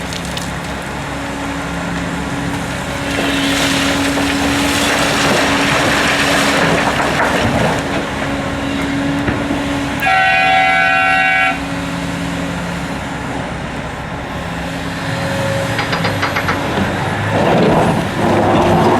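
Large diesel quarry machinery running steadily, its engine noise rising and falling as the machines work. A single horn blast, about a second and a half long, sounds about halfway through.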